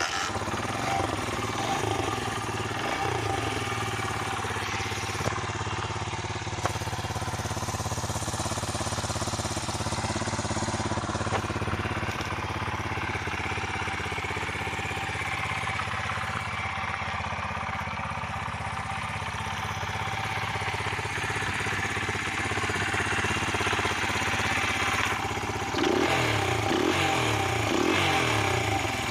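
Honda XR50 single-cylinder four-stroke engine, bored out with a Clipping Point 80cc kit, idling steadily, then revved in several quick blips near the end.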